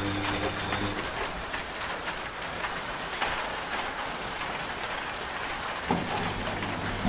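Steady rain on a surface, with a washing machine running under it; the machine's hum stops about a second in and starts again with a thump near the end.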